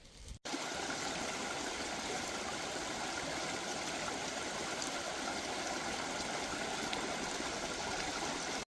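Flowing water of a stream rushing steadily, starting abruptly about half a second in.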